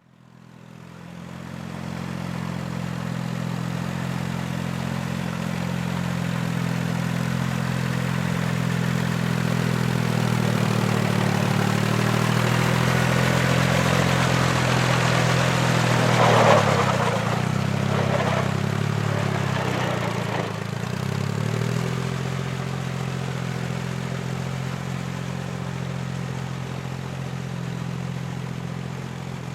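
Diesel-tractor-style engine running steadily at idle, fading in at the start. About halfway through it gets louder and rougher for a moment, and a few seconds later the pitch dips briefly before settling back.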